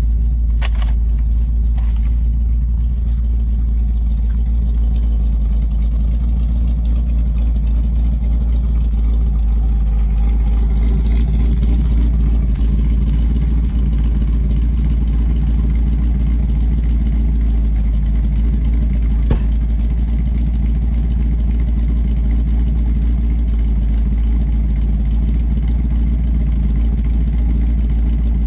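1961 Chevrolet Corvette's 283 cubic-inch V8, with two four-barrel carburetors and a solid-lifter Duntov cam, idling steadily, heard from beneath the car.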